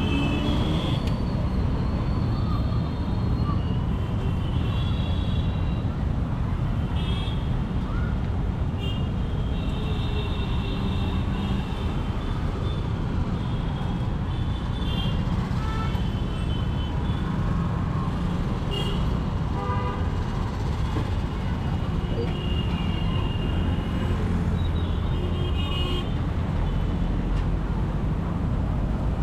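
Royal Enfield Continental GT 650's parallel-twin engine and exhaust running steadily on the move in traffic. Other vehicles' horns toot on and off throughout.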